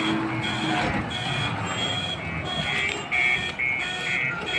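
Reversing alarm on heavy machinery beeping about every 0.7 seconds over a running diesel engine. A second, faster beeping alarm joins about three seconds in.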